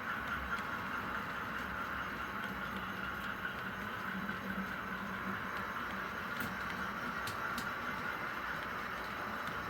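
S scale model train running on its track, a steady whirring rolling sound with a low hum, broken by a few sharp clicks about two-thirds of the way through.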